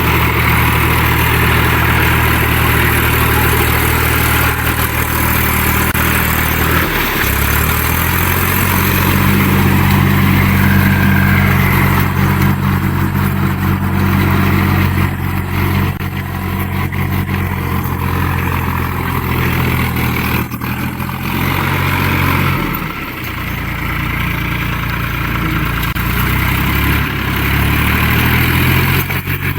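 Tractor engine running steadily. Its engine speed dips and picks up again about seven seconds in, and twice more later on.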